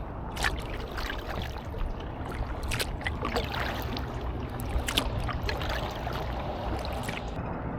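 Water splashing and lapping against an inflatable kayak as it rides small waves: a run of short, irregular splashes over a steady low rumble.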